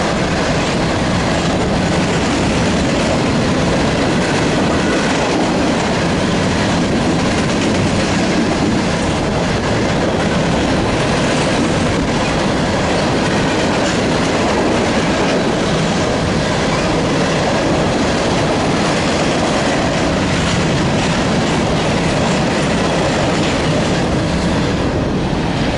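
Freight train of covered hopper cars rolling past at speed, its steel wheels running on the rails in a loud, steady, unbroken rush of noise.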